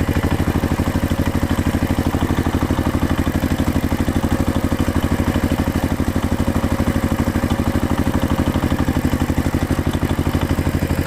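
Heavy diesel engine running steadily at low speed with a fast, even throb.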